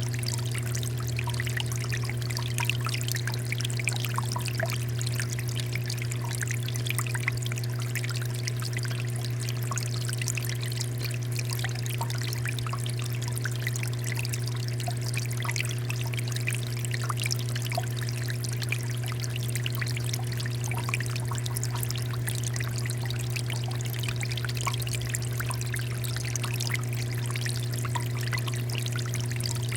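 Water fountain flowing and splashing steadily, a continuous patter of falling water, over a steady low hum.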